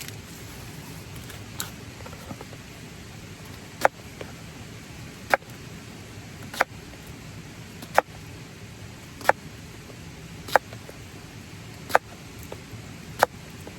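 Steady rain hiss, with a sharp tap repeating about every second and a half from a few seconds in.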